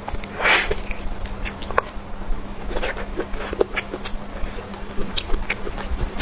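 Close-miked eating sounds: chewing and mouth smacking as a run of short, irregular wet clicks, with a longer noisy mouth sound about half a second in. A faint steady hum sits underneath.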